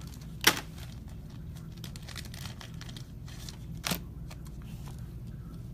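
Trading card pack wrapper being crinkled and torn open by hand, with a sharp click about half a second in and another near four seconds.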